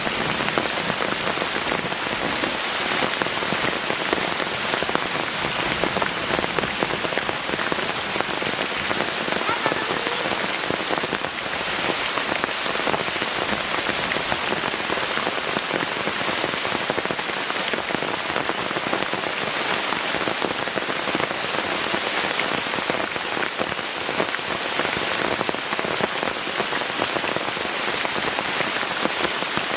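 Heavy rain falling steadily, a dense, even patter of many drops striking a surface.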